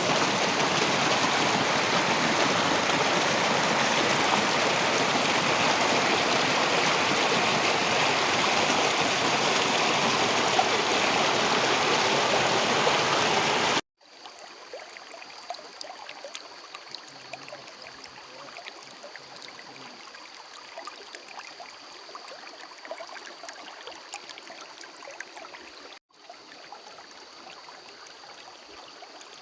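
Stream water rushing loudly and evenly, cutting off suddenly about 14 seconds in. It is followed by a much fainter trickle of water with small ticks and a thin, steady high-pitched whine.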